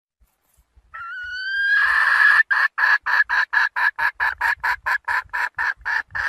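Red junglefowl hen calling. About a second in comes a rising, drawn-out note, then a fast, even run of short clucks, about four or five a second.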